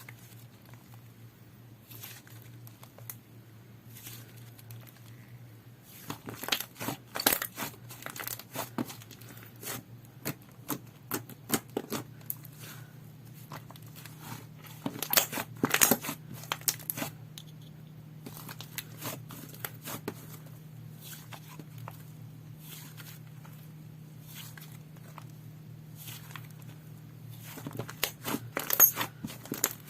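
Slime being squeezed, stretched and folded by hand, giving irregular sticky clicks and crackling pops that come in denser bursts a few times. A steady low hum runs underneath.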